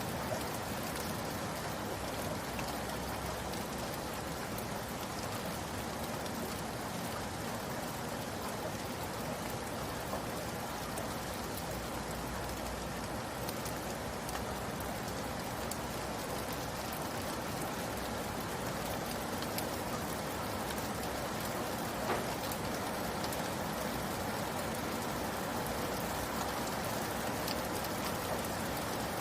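Steady rain falling and pattering on a surface, with scattered individual drops ticking. One slightly sharper drop or tick about two-thirds of the way through.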